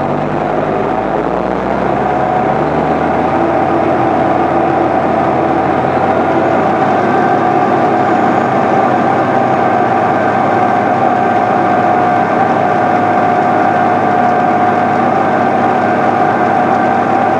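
A vehicle engine running steadily, with a steady whine over it.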